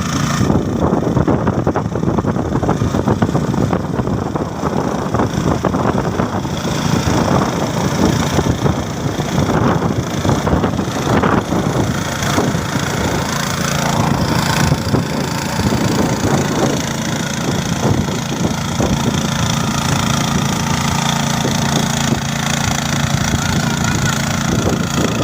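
Tractor engine running steadily and loudly with a rapid chugging beat. About halfway through it settles into a more even, lower hum.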